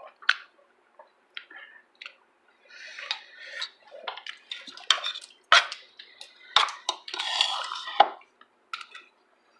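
Eating sounds: spoons and dishes clinking and scraping, with chewing, as a string of short clicks and a longer scrape or slurp near the end.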